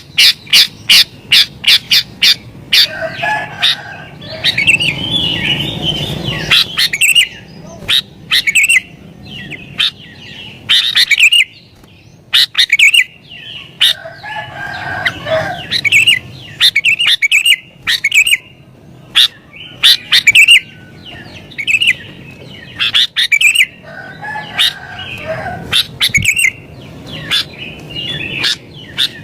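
Sooty-headed bulbul (kutilang) singing in agitation. It opens with a fast series of sharp chirps, about four a second, then gives repeated bursts of bubbly chirping phrases. This is the heated, rival-challenging song of an excited bird.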